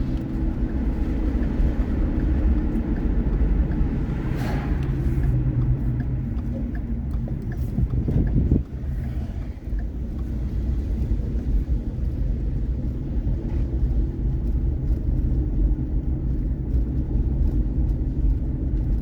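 Road vehicle driving, heard from inside the cab: a steady low engine and road rumble, with a brief change about eight and a half seconds in.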